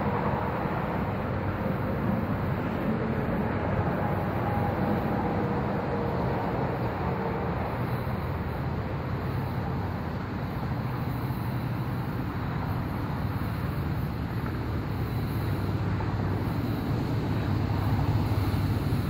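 Train rolling past with a steady rumble, with a faint high whine over it that fades out about halfway through.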